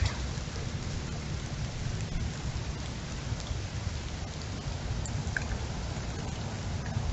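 Steady heavy rain falling during a windstorm, with a constant low rumble underneath.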